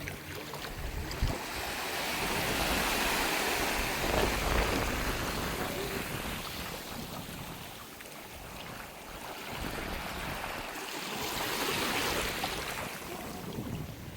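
Small sea waves washing onto the beach, swelling and falling back twice, with wind rumbling on the microphone.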